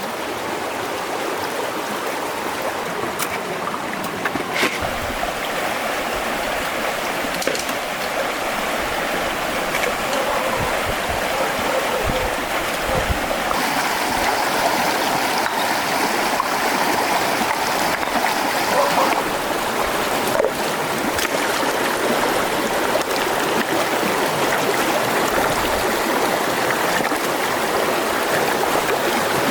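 Steady rushing of flowing stream water, with a few brief low thumps.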